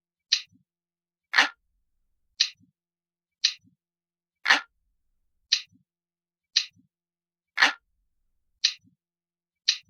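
Clock ticking steadily at about one tick a second. Every third tick is a fuller, lower 'tock', and the two between are sharper and higher. This is a realistic analog-clock ticking loop.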